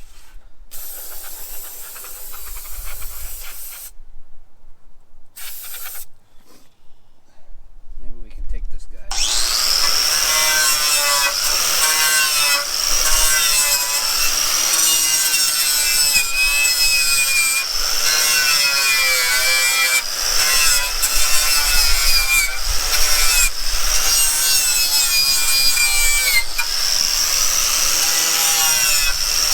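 A power tool spinning a wire wheel starts about nine seconds in and runs steadily under load, scouring metal. Its pitch wavers up and down as it is pressed on and eased off the work.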